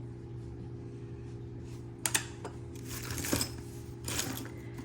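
Metal costume jewelry clinking as the pieces are handled, with a few sharp clinks about two, three and four seconds in, over a steady low hum.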